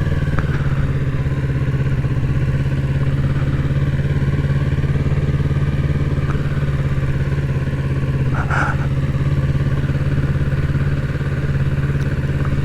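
Kawasaki Z650's 649 cc parallel-twin engine running at a steady speed as the motorcycle cruises, its hum holding one pitch throughout. A brief high-pitched sound cuts in about eight and a half seconds in.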